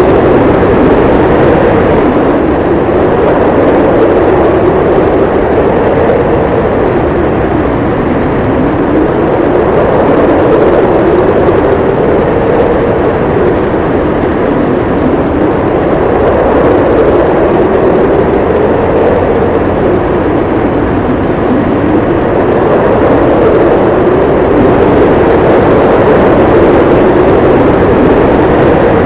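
Howling snowstorm wind: a loud, steady rush with a howl that slowly rises and falls in pitch every several seconds.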